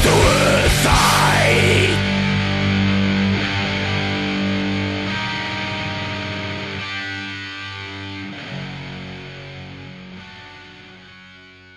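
Raw black metal song ending: the full band with drums and distorted electric guitar stops about two seconds in. A last distorted guitar chord is left ringing and slowly fades away.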